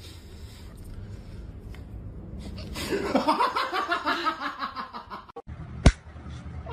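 A person laughing: a run of quick laughs about three seconds in, lasting about two seconds and falling in pitch. A single sharp click near the end.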